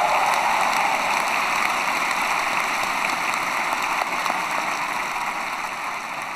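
Audience applauding, a dense even clapping that slowly dies down.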